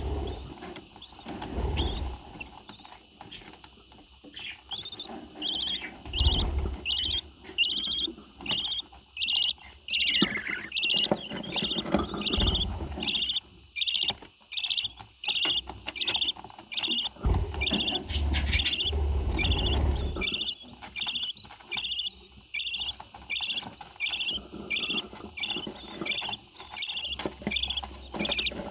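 Pet parrot giving short, high chirping calls over and over, about two a second, with low thumps and rustling underneath.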